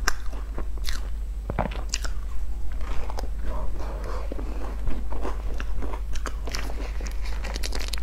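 Close-miked biting and chewing of a flaky, sesame-topped pastry cake, with frequent crisp crackles as the dry pastry layers break.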